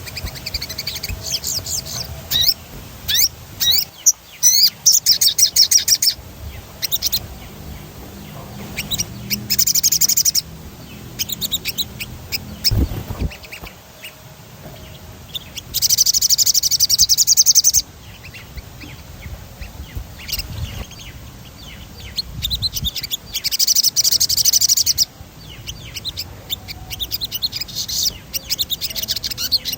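Sogon songbird singing in high, rapid trills: several rolling bursts of fast repeated notes, the longest lasting about two seconds, with short chirps between.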